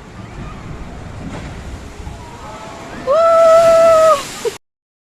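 Rushing water and wind noise on a boat ride, then a loud, steady high tone held for about a second; the sound cuts off abruptly just after.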